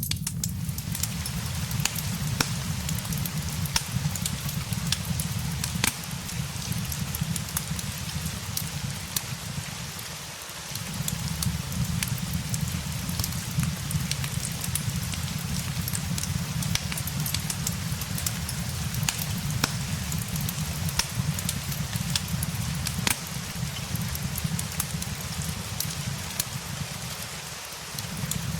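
Steady rain mixed with a crackling wood fire: a constant low rain rumble under frequent sharp pops and snaps from the fire.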